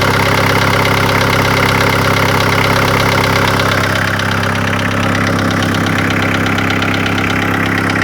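Volkswagen T4 1.9 turbodiesel (ABL) engine idling steadily with a rapid, rhythmic knock. The knock has persisted through a full valve replacement and a cylinder head swap, and a garage put it down to the hydraulic lifters or the injectors.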